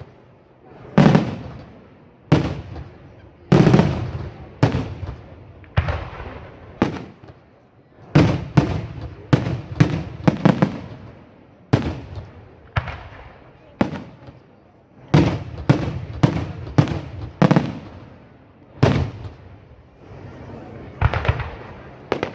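Aerial fireworks shells bursting in an irregular string of loud bangs, each trailing off in a rolling echo, with quick clusters of bangs near the middle and again later.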